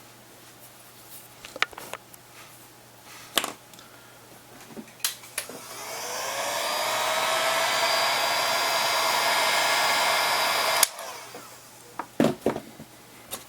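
Handheld hot-air blower switched on about five seconds in. Its motor whine rises as it spins up, then runs steadily for about five seconds before it cuts off with a click, heating a plastic part to soften it. Scattered clicks and taps of handling small parts come before and after.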